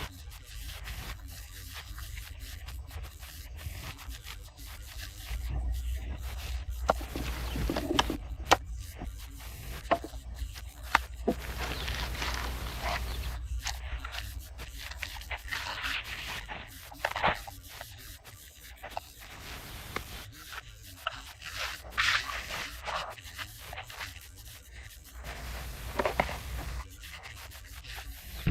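Hand work with tools on rough material: on-and-off scraping and rubbing, with a few sharp knocks.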